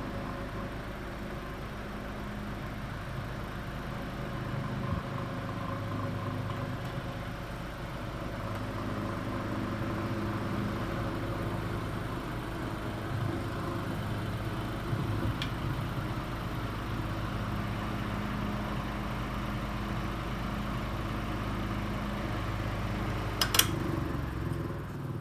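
Circa 1935–36 General Electric Quiet Blade oscillating desk fan running steadily on high speed, with a low hum and a shake from the vibration of a blade bent out of clock. A single sharp click comes near the end.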